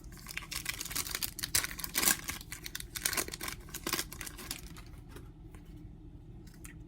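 Plastic foil trading-card pack crinkling and tearing as it is ripped open and handled, with rapid rustling for the first four seconds or so, then softer handling.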